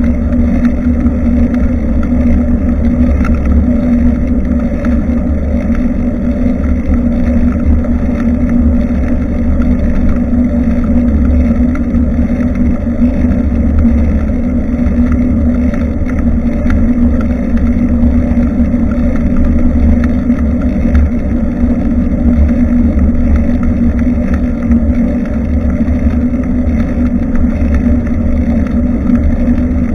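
Steady wind noise rumbling on a bicycle-mounted action camera's microphone while riding, a loud constant low drone with no pauses.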